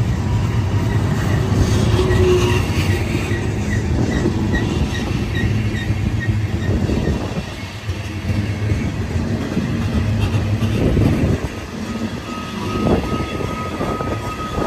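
BNSF train passing with a steady low rumble of rolling wheels and cars. A faint high ticking repeats about three times a second in the first few seconds, and a thin steady wheel squeal starts near the end.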